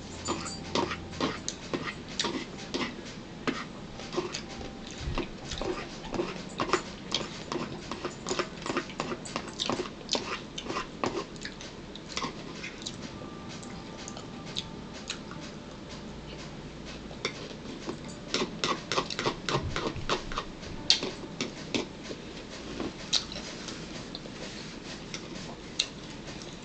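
Eating sounds close to the microphone: irregular chewing, lip smacking and small mouth clicks, scattered through the whole stretch.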